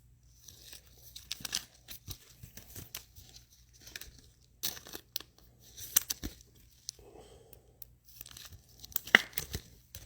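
Foil trading-card pack wrapper being torn open and crinkled by hand, in irregular rustling, crackling bursts with a few sharper crackles.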